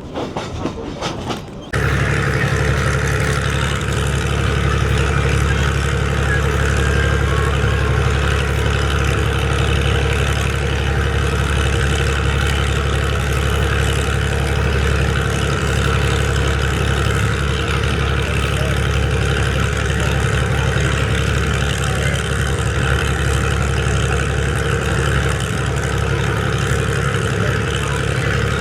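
Locomotive engine running steadily, a loud even hum with strong low tones, starting abruptly about two seconds in.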